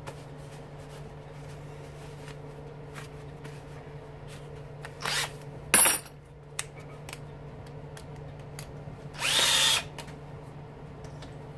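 Power drill driving a socket in two short bursts, about five seconds in and again about nine seconds in, the second a little longer and rising in pitch as it spins up; a sharp clack follows the first burst, over a steady low hum and light clicks of tools being handled.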